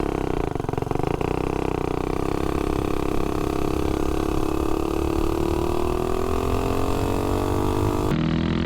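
Tillotson 225 single-cylinder four-stroke engine on a mini bike running at wide-open throttle on a top-speed pull with a GoPowerSports Fire 265 cam, its pitch rising slowly and steadily as the bike gains speed.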